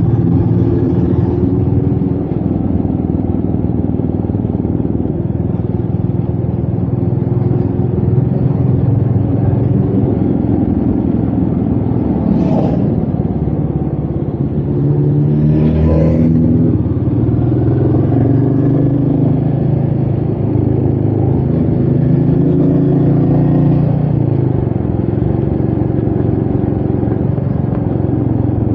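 Royal Enfield Meteor 350's single-cylinder engine running under way on a ride, with its pitch shifting up and down as the throttle changes, and wind noise on the microphone. Twice near the middle comes a short, sharp sound.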